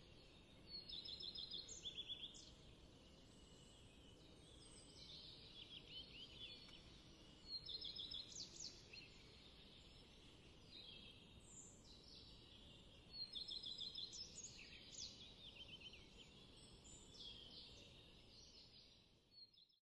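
A small songbird singing, repeating short trilled and chirping phrases every few seconds over faint outdoor background noise. The sound cuts off just before the end.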